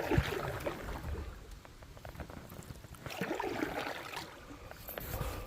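Canoe paddles stroking through river water, splashing and trickling, with two louder spells about three seconds apart.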